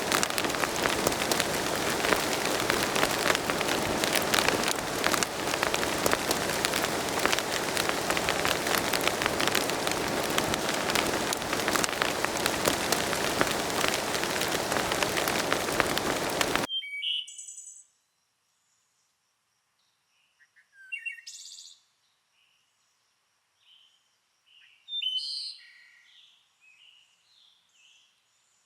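Steady spring rain falling on the woodland, a dense patter of many drops, which cuts off suddenly about two-thirds of the way in. After that, near silence with scattered short chirps and trills of songbirds.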